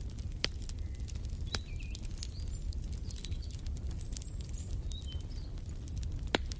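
Wood fire crackling in a fireplace: a steady low rumble with many small clicks and a few sharp pops. Small birds chirp a few short high notes in the middle.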